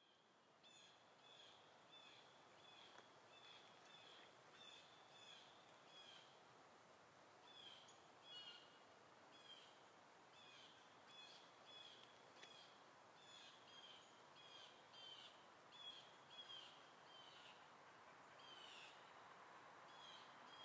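Faint birdsong: a bird repeating short, high chirps about twice a second, with two brief pauses, over faint steady background noise.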